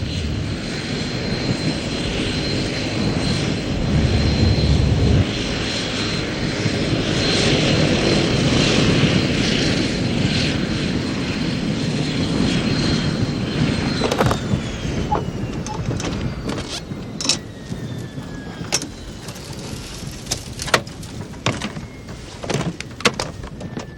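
Small aircraft's engine running after touchdown with a steady high whine, which starts falling in pitch a little past halfway as the engine winds down. Scattered knocks and clicks follow in the second half.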